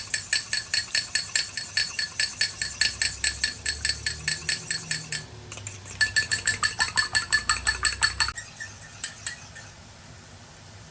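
An egg being beaten in a bowl, a utensil clicking rapidly against the side of the bowl at about seven strokes a second. The beating breaks off about five seconds in, resumes for about two more seconds, then stops after a few last taps.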